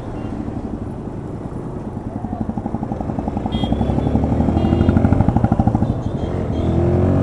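Yamaha FZS's single-cylinder engine running under way, its pulsing rising in pitch as the bike accelerates. It drops back about six seconds in, as at a gear change, then picks up again.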